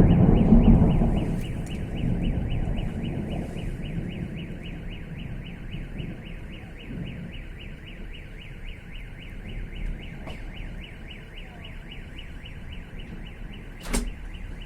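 Thunder rumbling loudly and dying away over the first few seconds, over a car alarm's rapidly repeating electronic tone that keeps going. A single sharp click sounds near the end.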